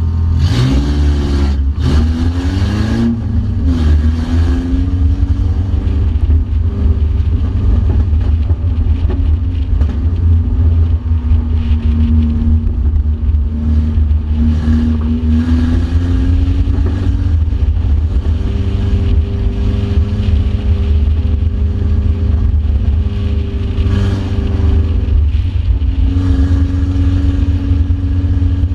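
Mercedes banger-racing car's engine heard from inside the cabin over a heavy low rumble, the revs rising and falling as it races. A few sharp knocks come in the first few seconds, while the revs swing quickly up and down.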